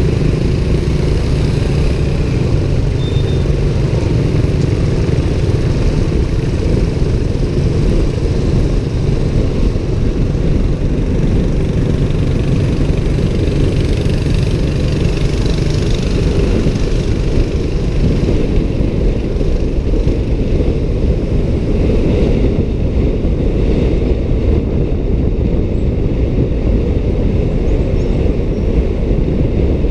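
Motorbike riding through city traffic: a loud, steady low rumble of engine and road noise that goes on without a break.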